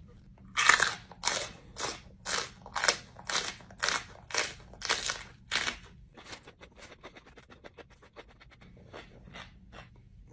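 A person chewing crunchy food close to the microphone: loud crunches about twice a second, then fainter, quicker chewing from about six seconds in.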